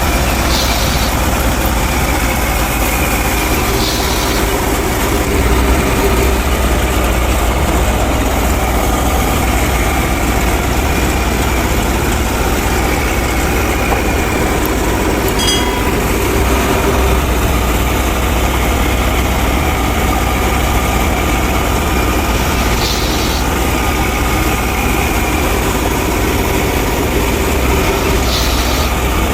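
Engine running steadily at an even speed, with a deep low hum and no changes in pace.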